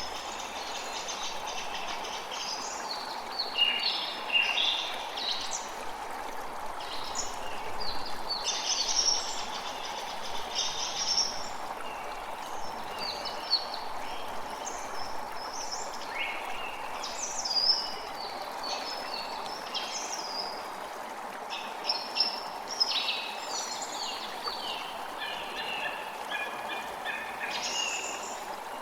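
Creek water running steadily, with many birds chirping and singing over it in quick, overlapping phrases.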